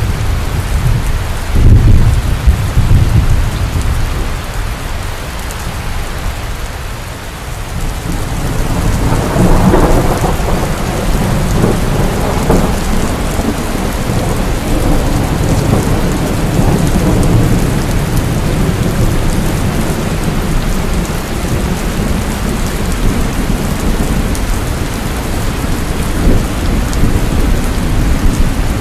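Heavy, steady rain with thunder. A loud clap of thunder comes about two seconds in, and a long rolling rumble builds from about nine seconds in.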